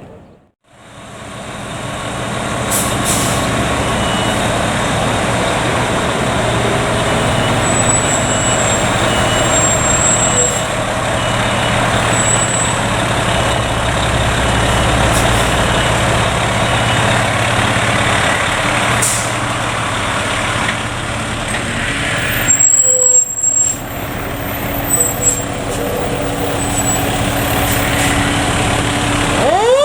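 Fire ladder truck's engine running steadily, with a faint evenly spaced beeping for several seconds and a loud air-brake hiss about two-thirds of the way through. The siren begins to wind up at the very end.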